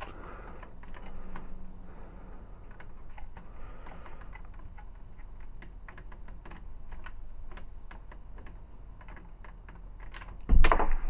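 Rapid small clicks and taps of plastic toy parts being handled and fitted together, with a louder knock near the end.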